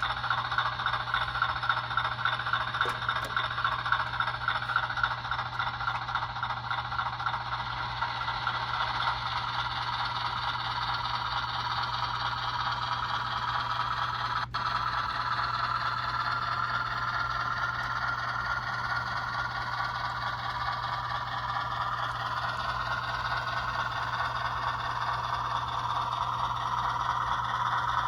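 HO scale 44-ton model switcher running along the track: a steady rattling and scraping of its wheels and drive, with a whine that slowly drifts in pitch and a single sharp click about halfway.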